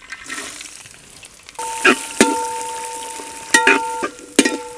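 Sliced coconut sizzling in hot oil: a hiss that grows loud about a second and a half in. A metal spatula stirs and knocks against the large metal pan four times, and the pan rings on after each knock.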